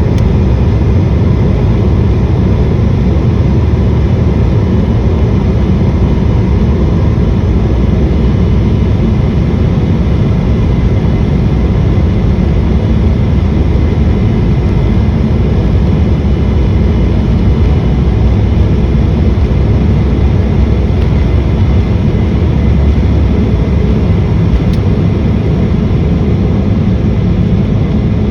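Steady jet engine and airflow noise inside an airliner cabin during takeoff and climb, low and even, with faint steady whining tones above it.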